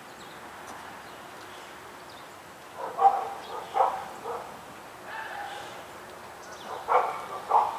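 A dog barking, short barks in two bunches: a few about three seconds in and two more near the end, over a steady background hiss.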